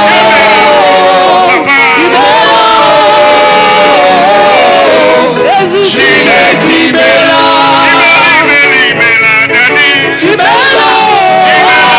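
Church worship music: voices singing a slow, wavering melody.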